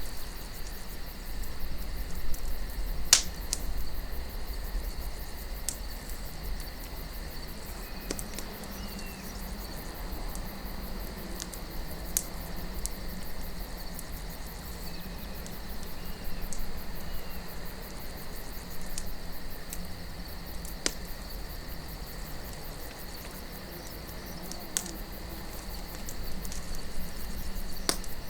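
Campfire crackling, with a handful of sharp pops from the burning wood, the loudest about three seconds in, over a low steady wind rumble and a constant high insect trill like crickets.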